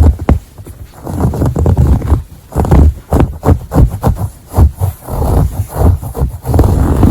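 Close-up ASMR scratching on a textile surface: quick scratching strokes in bursts, with brief pauses between them and a low rumble underneath.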